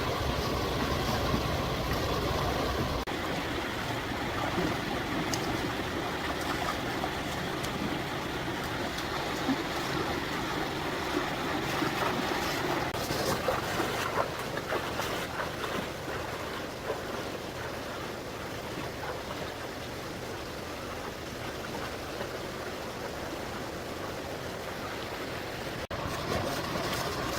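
Steady rush of running stream water, with a few faint clicks and knocks.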